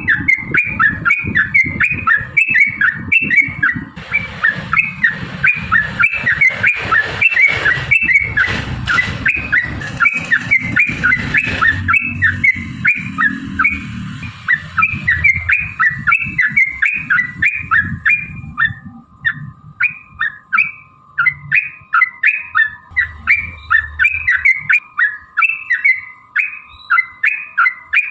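Yellow-vented bulbul singing a long, fast chattering series of short notes, about three a second without a break: the 'ropel panjang' song used to provoke other bulbuls into singing. A steady thin tone runs underneath, and a low rumbling noise sits under the first two-thirds and then fades.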